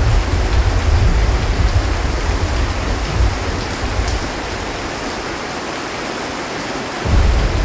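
Heavy rain pouring steadily onto a metal roof, with a low rumble of thunder that dies away about halfway through and rolls in again near the end.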